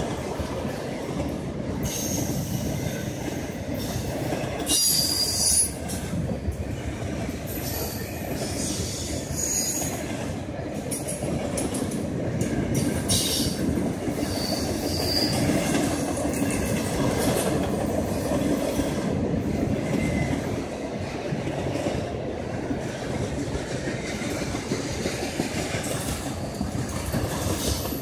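Intermodal freight train cars, carrying trailers and double-stack containers, rolling past with a steady rumble of steel wheels on rail. Brief high-pitched wheel squeals come and go several times.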